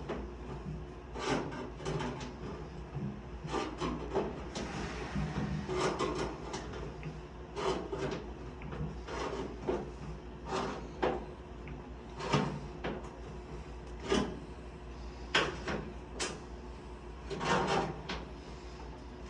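Stanley FatMax star-crimping pliers squeezing the end of a thin sheet-metal HVAC duct, a crunching click with each crimp, about one a second and irregularly spaced, as the metal is formed into a male end.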